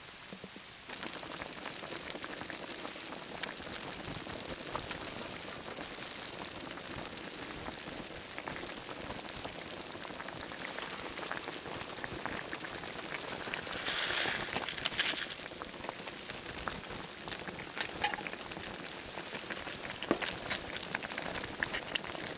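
Pan of gnocchi, Italian sausage and tomatoes in cream simmering, with a steady fine bubbling crackle. There is a brief louder scraping in the middle and a few sharp clicks near the end.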